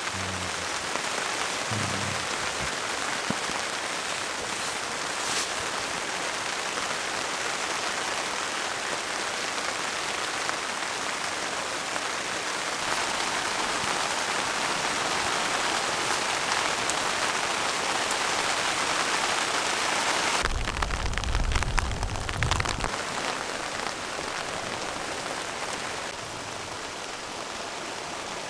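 Steady heavy rain, an even hiss throughout. About twenty seconds in, a deep low rumble lasts a couple of seconds.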